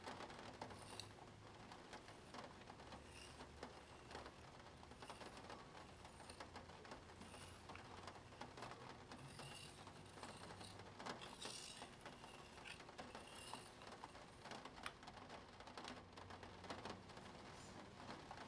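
Spirograph drawing: a pen worked around a plastic gear on paper, giving quiet, irregular small ticks and short scratchy strokes.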